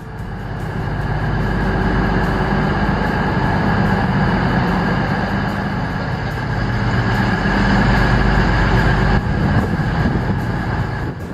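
Train running: a loud, steady rumble and rushing noise with a faint hum, building over the first couple of seconds.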